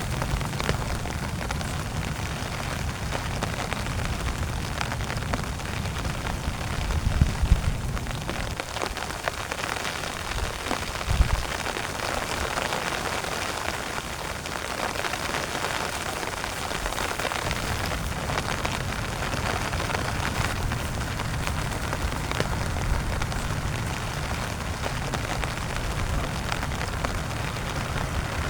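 Heavy rain pattering steadily on a tent, a dense patter of drops. Two louder low rumbles come through about seven and eleven seconds in.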